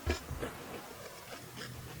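Close-up eating sounds: a low thump at the very start, then chewing of fried rice with small wet clicks and smacks.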